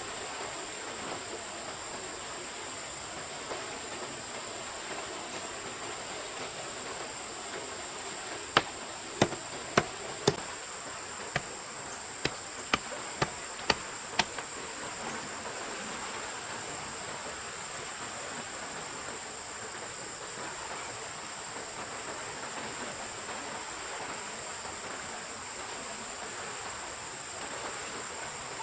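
Insects droning on one steady high note over the hiss of running water, with a run of about ten sharp knocks, roughly two a second, about a third of the way in.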